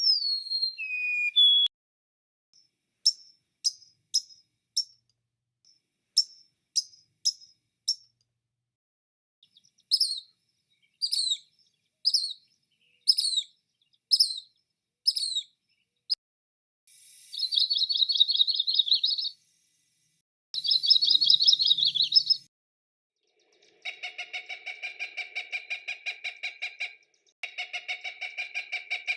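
Recorded calls of several bird species played one after another, separated by clean silences: whistled down-slurred notes, then runs of short sharp repeated notes, then two trilled bursts, and in the last few seconds a lower, rapid pulsing call.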